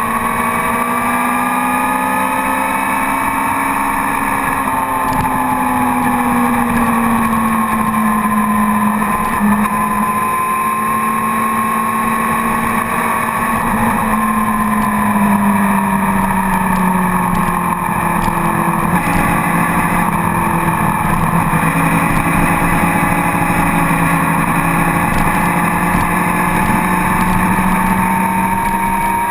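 Motorcycle engine heard from a camera on the bike's tail while riding at speed on a track, its note rising and falling slowly with the throttle, with no sharp revs or gear changes.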